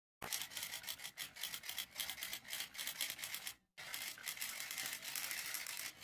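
Fast typewriter typing: a rapid, unbroken run of key clacks that stops for a moment about three and a half seconds in, then carries on.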